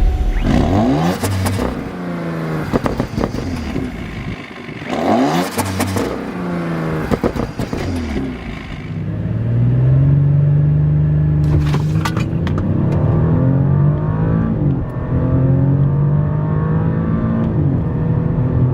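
Audi S7's 2.9-litre twin-turbo V6 and sports exhaust on the move. The engine note rises and falls several times in the first half, then settles into a steadier drone from about ten seconds in. A few sharp exhaust crackles come through, most around twelve seconds.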